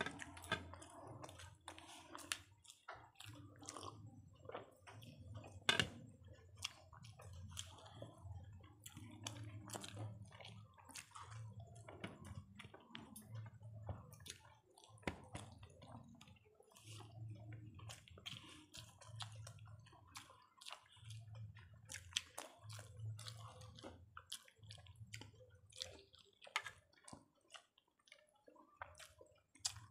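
Close-miked chewing and wet mouth sounds of people eating rice and boiled egg with their hands, with many small sharp clicks scattered throughout.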